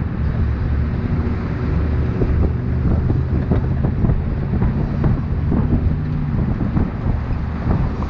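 A vehicle engine running steadily with wind buffeting the microphone, with light rattles throughout.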